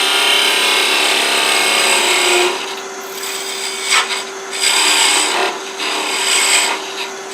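Thin 1/16 inch parting tool cutting into oak spinning on a wood lathe: a steady scraping hiss over the lathe's steady hum, continuous for the first couple of seconds, then in shorter cuts as the tool is eased in and backed off.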